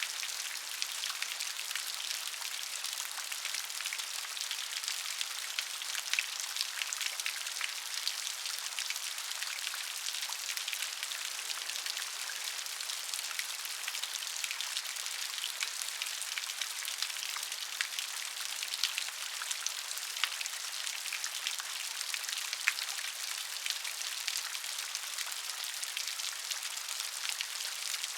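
Steady rain falling, with a dense hiss and many individual drops ticking on a surface.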